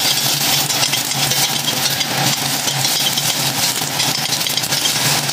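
Sliced onion sizzling in oil in a stainless steel saucepan, stirred with a metal spoon, over a steady low hum.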